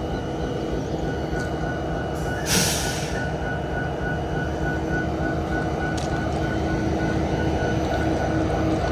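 SD70ACe diesel-electric locomotive's prime mover idling steadily, with a short hiss of air release about two and a half seconds in.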